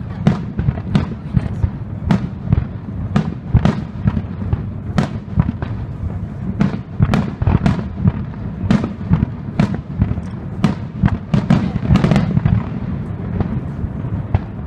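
Aerial fireworks display, shells bursting in quick succession: many sharp bangs, about two to three a second, over a steady low rumble.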